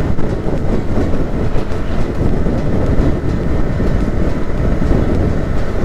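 Steady low rumble of wind buffeting the microphone while riding a motorcycle, with engine and road noise underneath.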